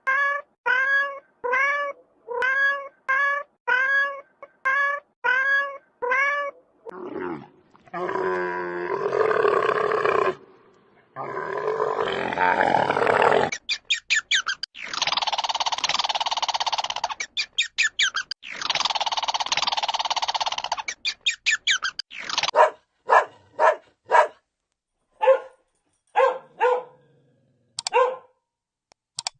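A succession of animal calls: a run of short, evenly repeated pitched calls about two a second, then several longer, harsher calls, then scattered short calls near the end.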